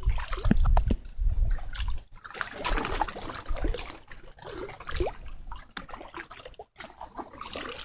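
Kayak paddle strokes in shallow water: water splashing and dripping off the paddle blades, with scattered light knocks.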